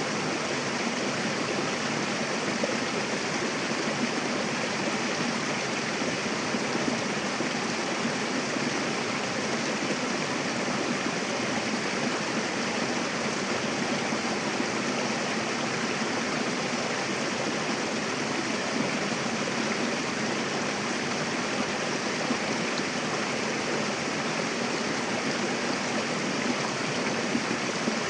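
Mountain river rushing over rocks: a steady, even wash of flowing water.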